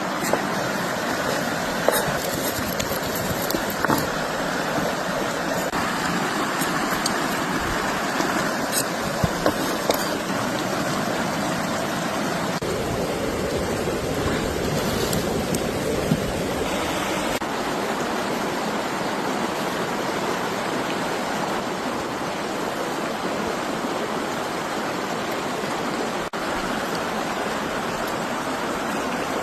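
Steady rushing noise with a few short clicks in the first part.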